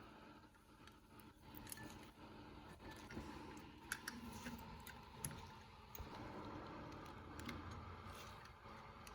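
Faint scattered clicks and light clatter of small carburetor parts being handled and set down while a 34 PICT-3 carburetor is taken apart.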